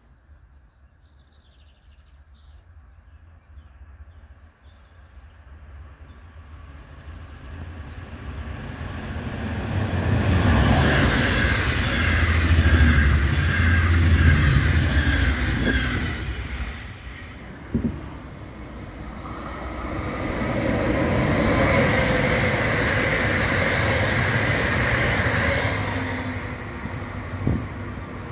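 Trains passing on an electrified main line: the first swells up about ten seconds in and is loudest, with a heavy low rumble. A second pass follows after a brief lull and a knock, with a steady higher whine, and fades near the end.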